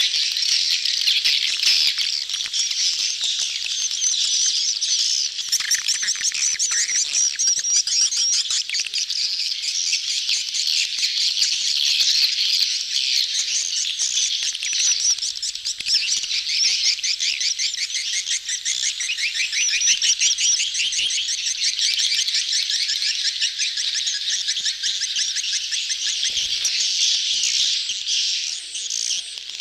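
A crowded colony of swiftlets twittering and chattering without a break, many rapid high chirps overlapping. These are swiftlets' courtship calls, the kind played as a lure sound to draw swiftlets into a nesting house.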